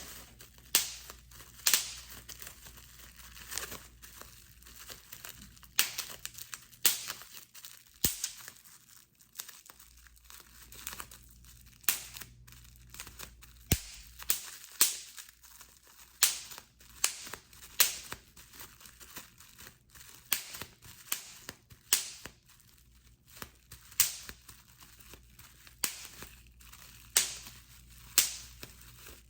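Bubble wrap being popped, single sharp pops coming irregularly about once a second, with the plastic crinkling between them.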